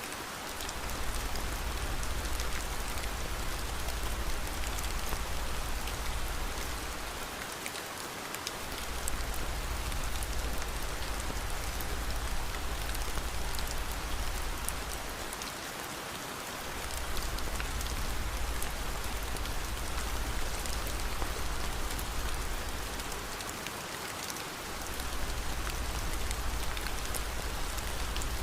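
Steady rain with scattered sharp ticks. A low rumble under it drops out briefly about every eight seconds.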